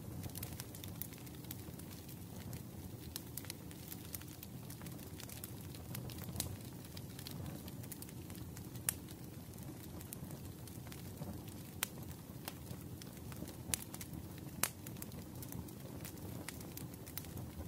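Wood fire crackling: a steady low rumble with irregular snaps and a few sharper pops from the burning logs, the loudest about nine seconds in and twice in the last few seconds.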